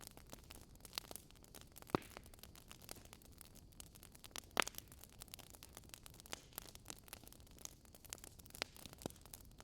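Wood fire burning in a fireplace: a steady run of small crackles over a soft hiss, with two louder pops, about two seconds in and again just before five seconds.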